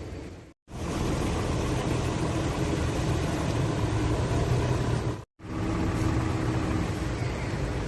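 A vehicle engine running steadily, broken twice by short, sudden gaps of silence, about half a second in and about five seconds in.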